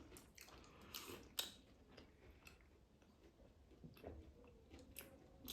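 Faint chewing and a few soft scattered clicks of someone eating a meal, close to near silence.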